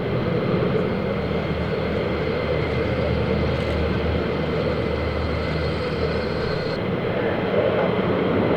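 Jet aircraft engine noise, a steady dense rush with a faint high whine running through it.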